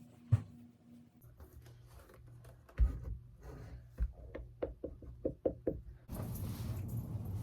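Several knocks and thumps, then a quick run of short taps, with a steady rushing noise starting about six seconds in.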